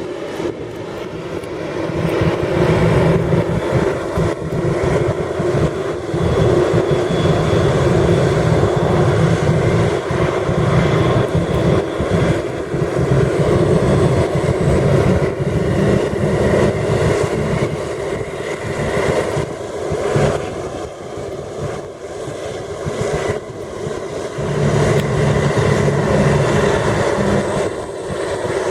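Jet engine noise of an arriving Boeing 787-9 airliner: a loud, steady rushing rumble that eases briefly about two-thirds of the way through and then builds again, with wind buffeting the microphone.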